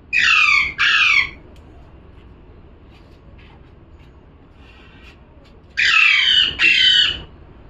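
Pet parrot squawking: two pairs of loud calls, each call falling in pitch, one pair at the start and another about six seconds in.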